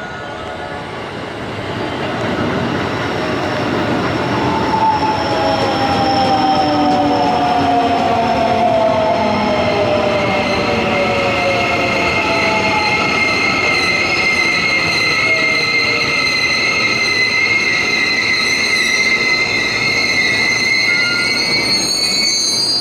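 Electric commuter train running into the platform and braking. Its motor whine falls in pitch as it slows, and high-pitched brake and wheel squeal rises slightly toward the end.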